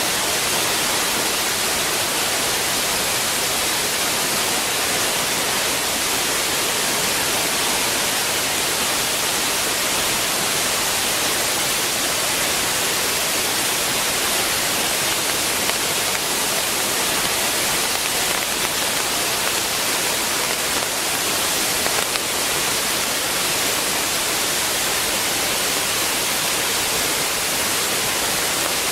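A waterfall that flows only after heavy rain, running in full: a steady, unbroken rush of falling water with a bright hiss.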